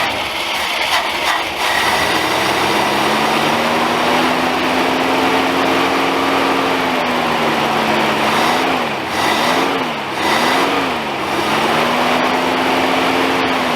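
An old truck's carbureted engine catches after its carburetor has been primed with fuel from a squeeze bottle, with no gasoline coming up from the tank, and runs on that prime. About two-thirds of the way in, its speed sags and recovers three times, and near the end it falls off.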